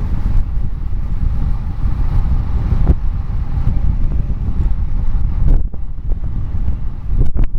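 Wind buffeting the microphone of a camera on a bicycle coasting downhill at speed, a loud, gusting low rumble. A few sharp clicks or knocks sound near the end.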